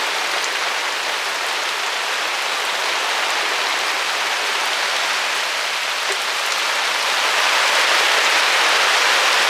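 Heavy rain pouring down steadily: a dense, even hiss that grows a little louder about seven seconds in.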